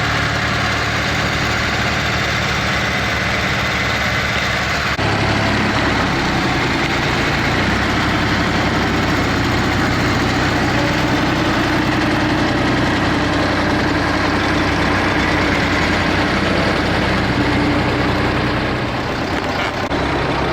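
Eicher tractor's diesel engine running steadily at low revs. About five seconds in the sound changes abruptly to a different, brighter engine note that then holds steady.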